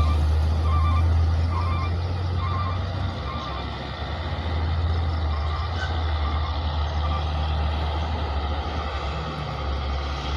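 Heavy diesel truck engine running steadily at low revs, with a truck's electronic alarm beeping about once every three-quarters of a second until roughly seven seconds in.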